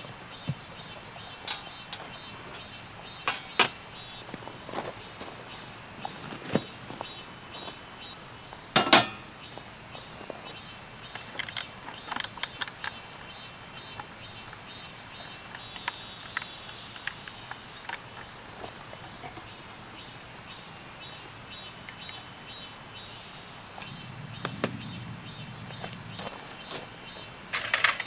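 Insects chirping in a fast, even pulsing rhythm, with a shrill high buzz that joins for about four seconds and then cuts off suddenly. Scattered sharp clicks and knocks come through over it, the loudest about nine seconds in.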